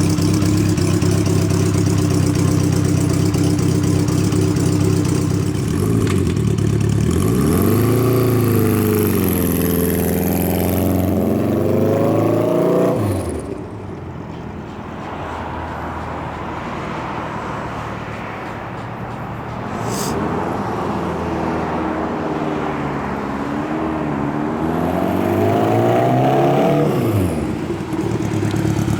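Honda Gold Wing cafe-custom motorcycle engine idling steadily, then rising and falling in pitch as it is revved and pulls away. It grows quieter for a stretch from about halfway, then climbs and falls in pitch again near the end.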